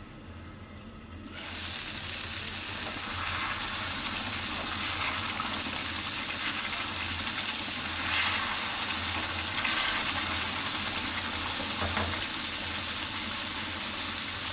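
Cooking water pouring off par-boiled rice as it is drained through a strainer: a steady splashing hiss that starts suddenly about a second in.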